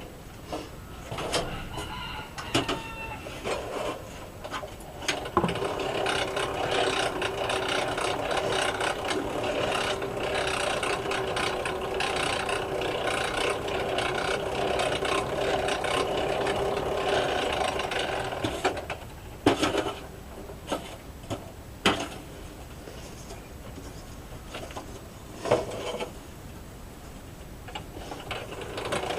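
A steady mechanical whir with a hum, like a small electric motor, running for about thirteen seconds and stopping, with scattered sharp clicks and knocks before and after it.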